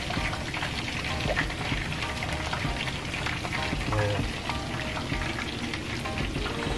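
Chicken wings deep-frying in hot oil, a steady sizzle full of small crackles, with a spatula stirring and scraping thick sauce in a wok over it.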